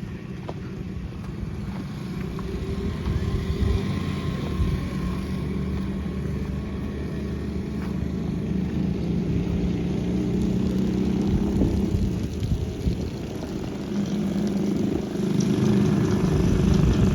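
An engine running steadily, a low hum that keeps a steady pitch and grows a little louder towards the end.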